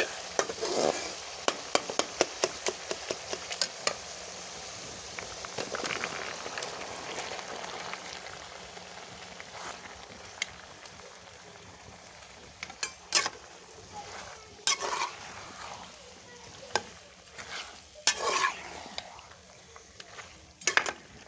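Spiced onion-tomato masala sizzling in hot ghee in a metal pot, with a quick run of sharp clicks from a metal spoon stirring against the pot in the first few seconds. The sizzle dies down after about eight seconds, and later come brief scrapes and clatters of the spoon turning cubed potatoes, turnips and peas in the pot.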